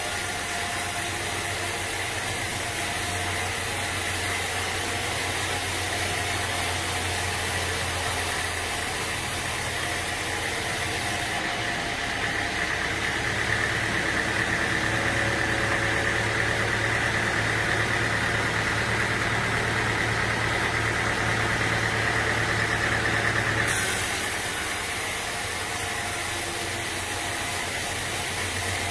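An engine running steadily. Its sound changes abruptly about twelve seconds in, with a louder high steady tone, and changes back about twenty-four seconds in.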